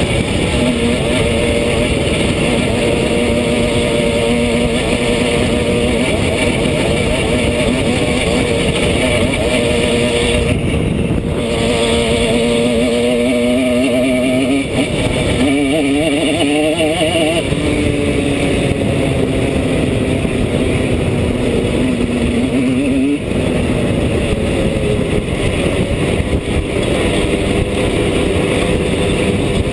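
Simson S51 Enduro's lightly tuned single-cylinder two-stroke engine running under load while riding. Its pitch mostly holds steady, drops briefly twice, about eleven and twenty-three seconds in, and wavers up and down about half way through.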